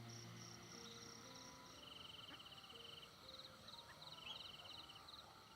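Insects chirping faintly in fast pulsed trills that come and go every second or so, with a few soft low held tones underneath.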